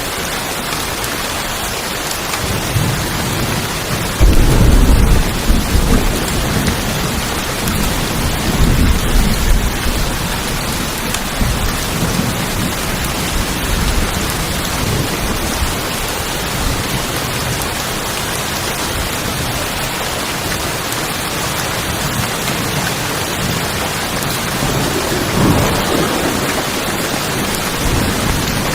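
Steady rain falling on tin roofs, with rolls of thunder: the loudest about four seconds in, another around eight seconds, and a shorter one near the end.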